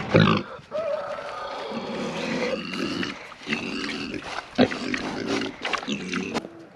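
Goats bleating: several long, wavering calls one after another, the longest lasting about two seconds near the start. A single sharp knock sounds a little past the middle.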